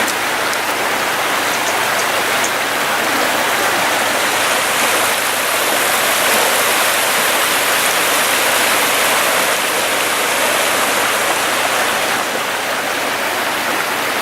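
Swollen flash-flood water rushing steadily, fast and turbulent.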